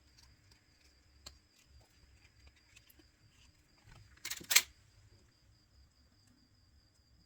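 Faint clicks of small tools and phone parts being handled, with one louder double knock about four seconds in, over a faint steady high-pitched whine.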